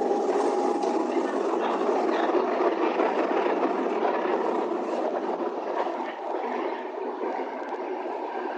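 Electric commuter train running at speed, heard from inside the carriage: a steady, even running noise of the moving train, with a faint high whine that fades out about a second in.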